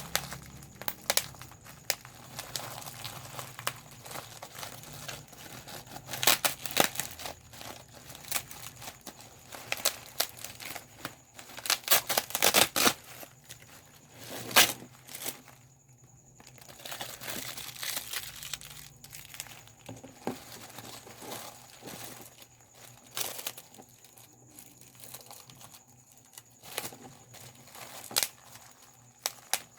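Plastic bubble wrap being handled and popped by hand: irregular sharp pops, sometimes in quick runs, amid the crinkling of the plastic sheet.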